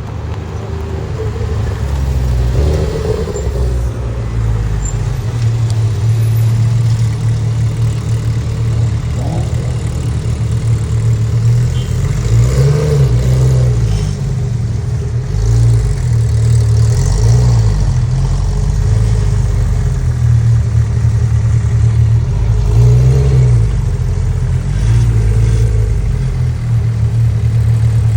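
Car engines rumbling at idle, with a couple of short revs that rise and fall about halfway through and again near the end.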